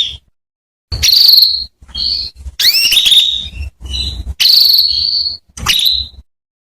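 Female domestic canary calling: a run of short, sharply rising chirps, with two longer trilled calls, about a second in and again near the middle, each burst separated by short pauses.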